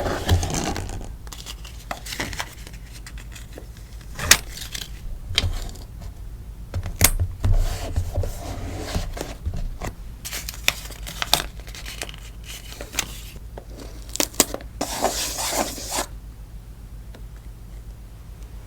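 Sticker order being packed by hand: plastic sleeves and paper rustling and crinkling, with sharp taps and clicks as items are handled. About fifteen seconds in there is a longer burst of rustling or tearing.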